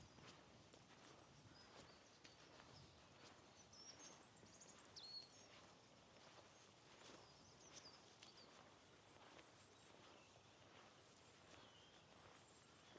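Near silence, with faint footsteps at a walking pace, about two a second, and faint bird chirps.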